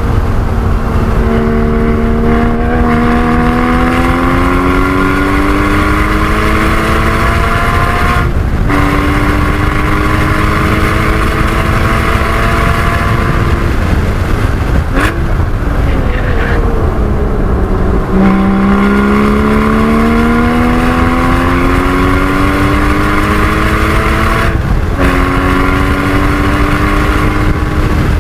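Porsche 981 Cayman GT4's flat-six under hard acceleration on track: the engine note climbs, breaks for an upshift about eight seconds in and climbs again, falls away around the middle with a short blip as the car slows, then climbs hard once more with another upshift near the end. A steady low rumble of road and wind noise runs underneath.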